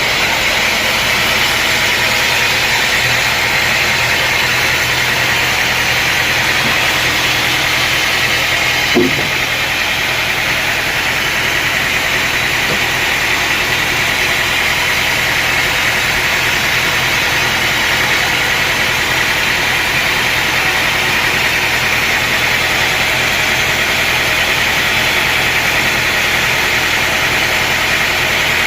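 Sawmill machinery running steadily with a constant mechanical hum and hiss. A brief sharp sound comes about nine seconds in.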